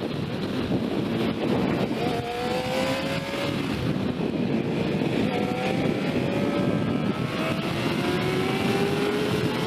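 Sport motorcycle engine accelerating up through the gears, its pitch climbing slowly and dropping back at each upshift about three times, under heavy wind rush on the microphone.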